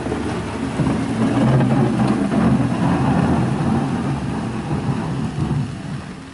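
A heavy engine running under load with a low rumble, fading away near the end.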